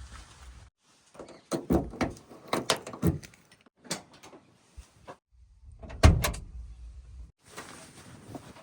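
A series of heavy knocks and thuds: a quick run of them in the first few seconds, and the loudest single impact about six seconds in.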